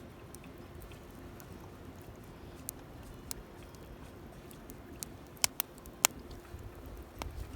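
Wood campfire crackling: a low steady hiss with a scattering of sharp, irregular pops, the loudest clustered a little past halfway.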